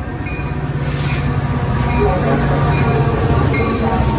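Train running past on the rail line: a steady low rumble with faint ringing tones from the wheels, growing gradually louder.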